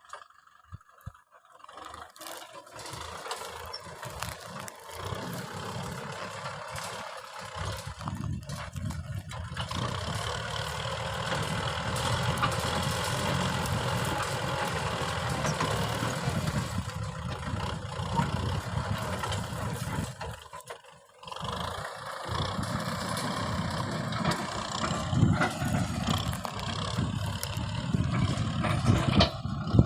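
Kubota M6040 tractor's diesel engine running. It builds up over the first several seconds, drops out briefly about two-thirds of the way through, then comes back.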